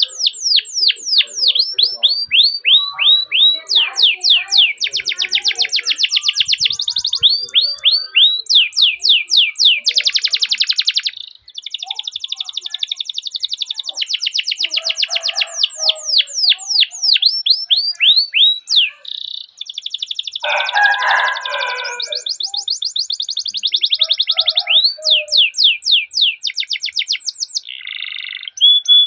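Canary singing continuously: long rolling trills alternate with runs of quick downward-sweeping 'cuit cuit' notes, phrase after phrase.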